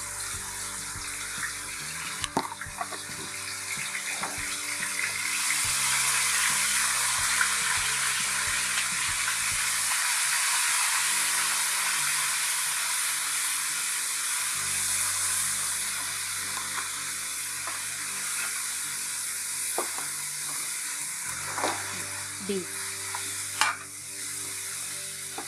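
Ginger-garlic paste and whole spices sizzling in hot oil in a kadai while being stirred with a wooden spoon, then beef pieces frying in it. The sizzle is a steady hiss that grows louder about five seconds in, with a few light knocks of the spoon against the pan.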